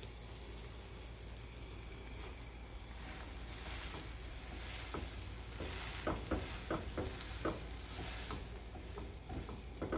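Tuna melt sandwiches frying in a nonstick frying pan, a steady sizzle. From about halfway there are a few light taps and clicks as a silicone spatula presses on the sandwiches.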